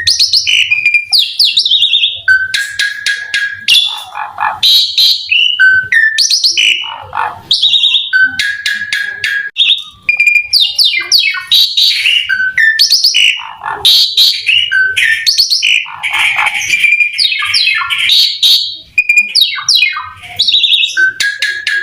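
Asian pied starling (jalak suren) singing continuously: a long, varied song of loud whistles, fast rattling note series and sweeping slurred notes, with only brief pauses between phrases.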